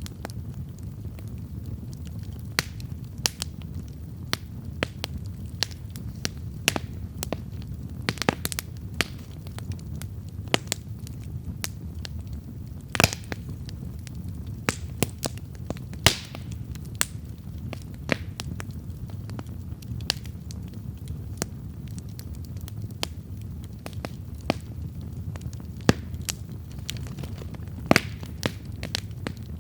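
Wood campfire burning with a steady low rumble and irregular sharp crackles and pops, a few louder pops standing out.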